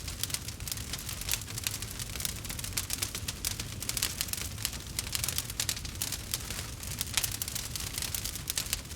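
Campfire burning: dense, irregular crackles and pops of burning wood over a low steady rumble, with one louder pop about seven seconds in.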